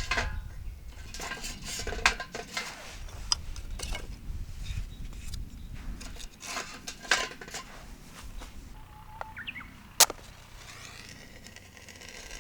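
Scattered clinks and knocks of cookware and utensils being handled, over a low rumble that fades about halfway through. The sharpest knock comes about ten seconds in.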